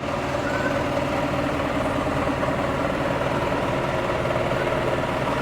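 Steady hum of a running vehicle, with a few held tones over an even rumble and no change in level.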